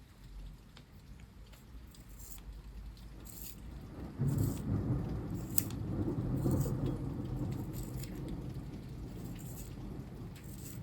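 Rain falling with scattered sharp drips, and a roll of thunder that breaks in about four seconds in and rumbles on, slowly fading.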